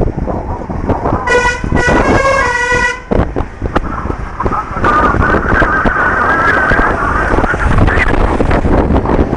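Road vehicle running with a heavy, loud rumble. About a second in, a multi-note horn sounds in a few short, changing tones for nearly two seconds.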